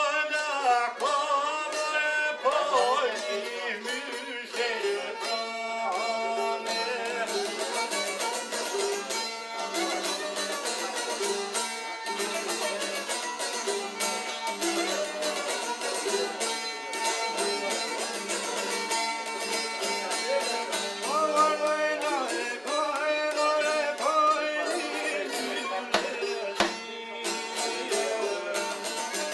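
Traditional folk music: a sung voice over string accompaniment on a steady low drone. The voice is most prominent at the start and again about 21 seconds in.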